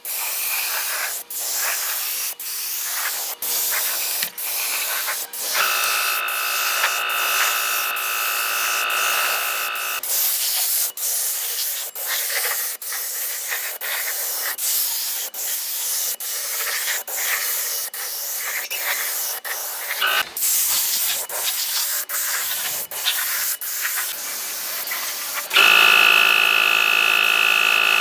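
Loud steady hiss, broken by short gaps about once a second. A steady whine of several tones joins it for a few seconds in the middle and again near the end.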